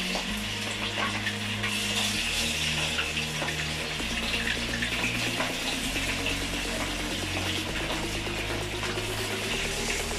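Chicken pieces sizzling in hot oil in a wok as they are added and deep-fried: a steady hiss with many small crackles.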